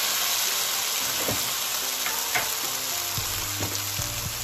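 Skewered chicken kebabs sizzling in ghee in a frying pan preheated on medium: a steady frying hiss, with a few short clicks.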